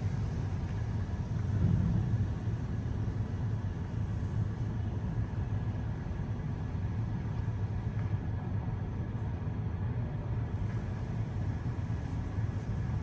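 Mark VII ChoiceWash XT in-bay automatic car wash running its soft-touch cycle: a steady low rumble and hum of the machine's motors and pumps, with a hiss of spray over it.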